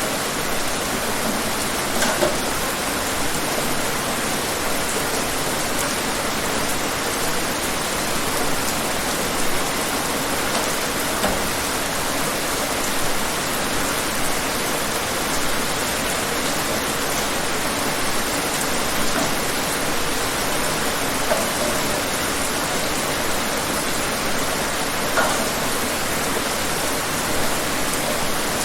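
Steady rain falling, an even hiss with occasional louder individual drops.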